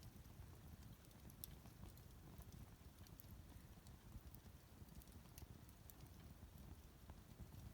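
Bonfire crackling faintly: scattered sharp snaps and pops at irregular intervals over a low rumble.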